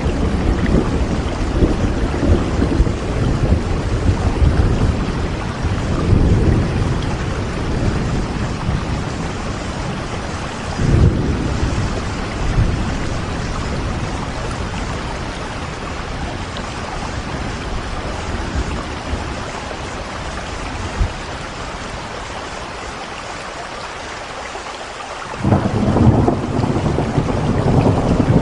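Steady rain with low rolling thunder underneath. The rumble swells suddenly about eleven seconds in, eases off, and comes back loud near the end.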